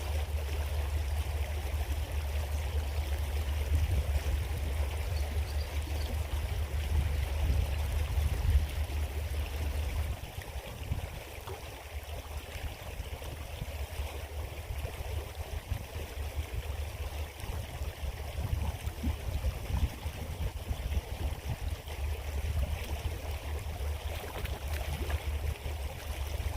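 Small creek flowing steadily over stones. A heavy low rumble under it eases off about ten seconds in.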